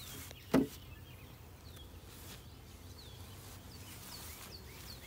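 Birds chirping repeatedly in short, falling calls over a steady low outdoor hum, with one sharp knock about half a second in.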